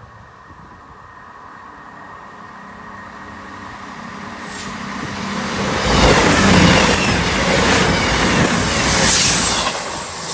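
Voyager diesel-electric multiple unit approaching and passing at speed. Its engine and rail noise build steadily, peak from about six seconds in with a thump from the wheels roughly once a second as the bogies pass, then begin to fade near the end.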